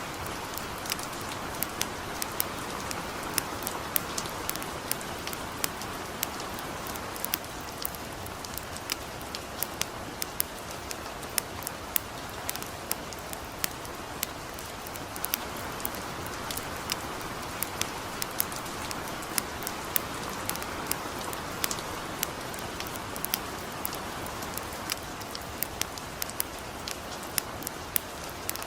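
Gentle rain mixed with a campfire: a steady hiss of light rain with frequent small sharp crackles and pops scattered through it.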